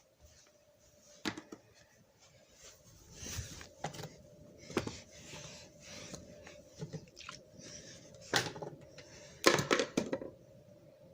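Scattered clicks, knocks and rustles of small objects being handled, over a faint steady hum, with a cluster of louder knocks near the end.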